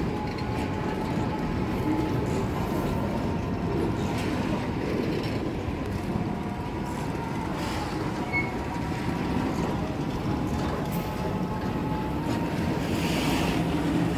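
Freight train with a Class M11 diesel locomotive moving along the track: a steady rumble, with wheels clacking over rail joints every two to three seconds and a faint thin squeal above it.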